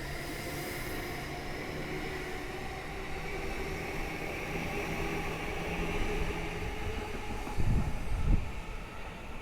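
Electric commuter train running with a steady motor whine over the rumble of its wheels. Near the end the wheels strike a rail joint with two loud, heavy clunks in quick succession.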